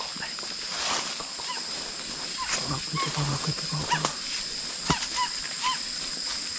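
Rainforest ambience: a steady high insect buzz underneath short, repeated chirping animal calls that come several a second in the second half.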